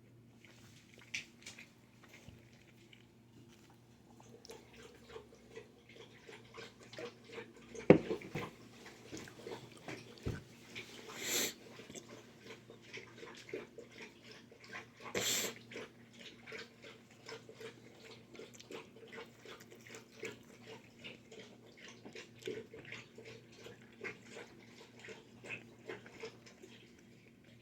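A person chewing pizza close to the microphone: a steady run of small wet clicks and mouth sounds. There is one sharp knock about eight seconds in and two short hissing rushes of breath around eleven and fifteen seconds.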